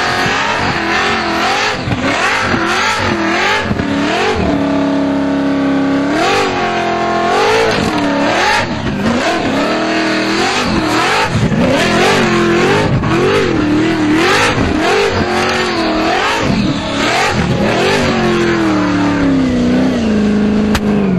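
Supercharged V8 engine of a one-tonner ute revved hard in a burnout, its pitch rising and falling several times a second as the rear tyres spin. The revs are held high and steady for a couple of seconds about five seconds in and drop away in a long falling sweep near the end.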